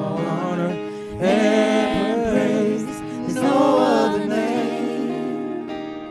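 Gospel vocal group singing in harmony over instrumental backing, with long held notes, the music growing softer toward the end.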